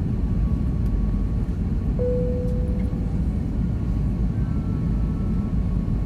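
Steady cabin roar of an Airbus A321 in flight, engine and airflow noise heard from a window seat. A single short tone sounds about two seconds in and fades out.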